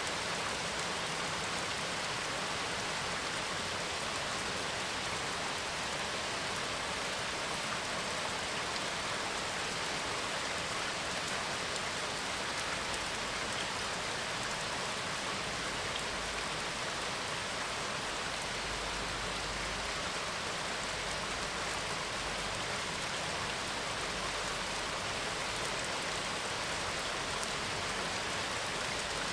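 Steady rain, an even unbroken hiss of falling drops.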